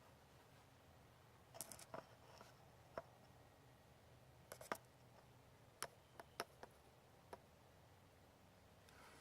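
Near silence broken by a handful of light, irregularly spaced clicks and taps, as of small tools or engine parts being handled, with a small cluster about a second and a half in and several more between about four and a half and seven and a half seconds in.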